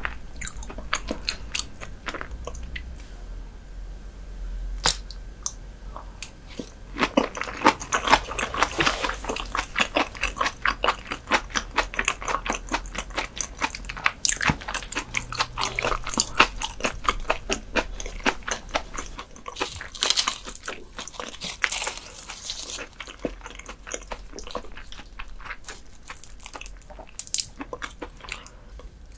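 Close-miked chewing of raw herring sashimi: many quick, crackly mouth clicks. They come sparsely at first, then thick and fast for a long stretch in the middle.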